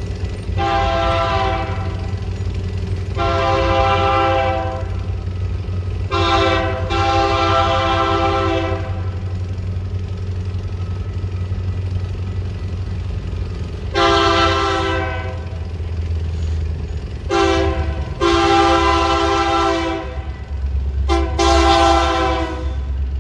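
Diesel freight locomotive's multi-chime air horn sounding the grade-crossing signal: two long blasts, a short one and a long one, then a second series of long and short blasts in the second half. A steady low rumble from the train runs underneath.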